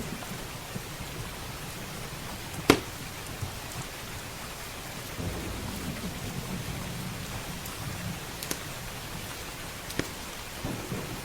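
Steady rain with low rolling thunder that swells about five seconds in. Sharp crackles and pops from a wood fire cut through it, the loudest a single pop a little under three seconds in.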